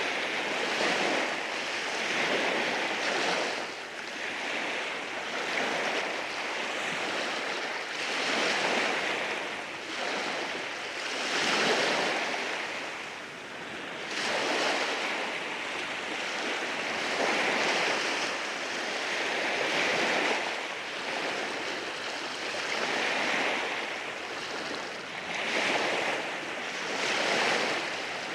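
Sea waves washing in over rocks on a rocky shore, the surf swelling and falling away every few seconds, with one bigger surge about twelve seconds in.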